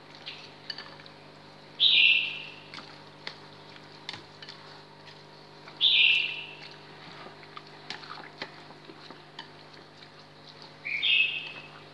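A bird chirping three times, one short call about every four seconds. Under it are faint clicks and scrapes of chopsticks in a bowl of marinating chicken, and a steady electrical hum.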